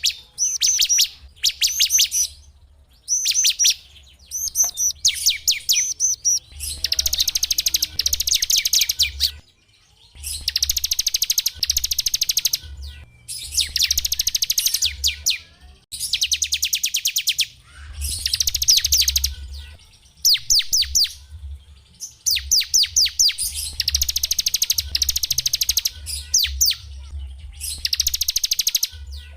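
Small songbird singing in quick bursts of high, fast trills and rapidly repeated sharp notes, each phrase lasting a second or two with brief pauses between.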